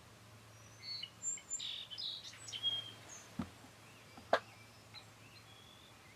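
Small songbirds chirping and whistling in short high calls, with two sharp clicks past the middle, the second the loudest.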